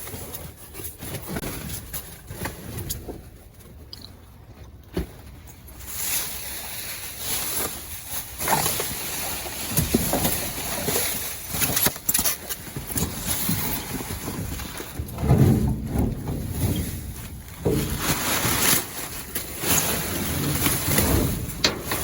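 Storm wind buffeting the microphone in gusts, much louder from about six seconds in, with a few scattered knocks.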